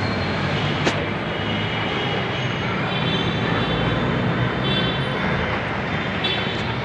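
Steady rumbling background noise, with a single sharp click about a second in.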